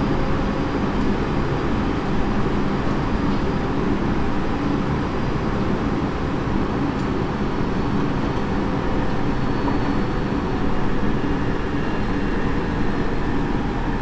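Tobu 30000 series electric train running between stations, heard from inside the car: a steady rumble of wheels on the rails with a faint steady hum from the running gear.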